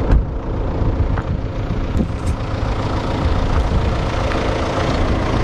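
A motor vehicle's engine running steadily with a deep, continuous rumble, with a single sharp knock right at the start.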